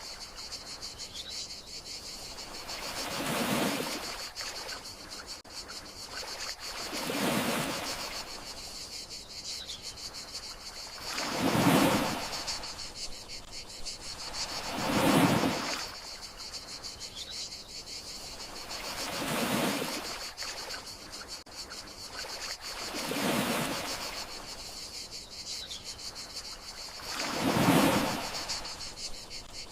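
Gentle sea waves breaking on the shore, one swell about every four seconds, over a steady chorus of crickets.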